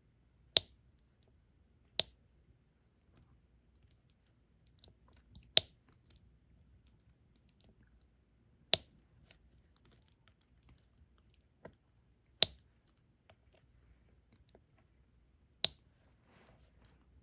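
Sharp, separate clicks of a diamond painting stylus setting drills onto the sticky canvas, about seven spaced irregularly a second or several apart, with fainter ticks between.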